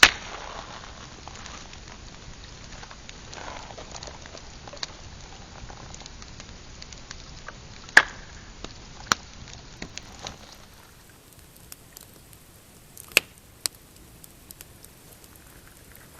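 Pine-wood campfire crackling over a steady hiss. Sharp snaps and pops come every few seconds, the loudest right at the start and about 8 and 13 seconds in.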